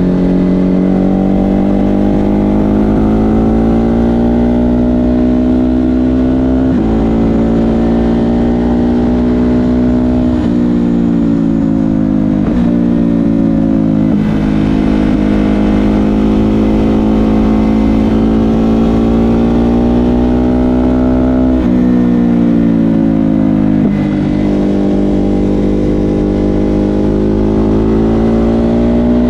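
Ducati Hypermotard 950 SP's L-twin engine through an SC Project exhaust, heard from the rider's seat. The engine pulls through the gears under throttle, its pitch climbing and then dropping sharply at each of about five shifts.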